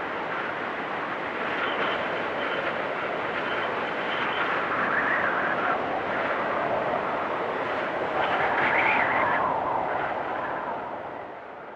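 Storm wind blowing in gusts with a faint high whistle, swelling loudest about nine seconds in, then dying down near the end.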